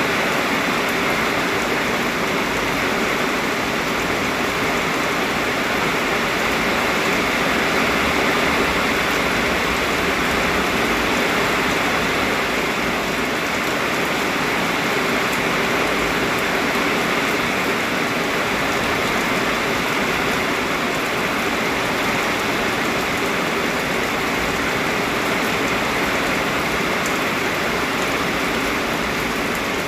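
Heavy rain pouring down steadily, an even, unbroken wash of sound with no separate drops standing out.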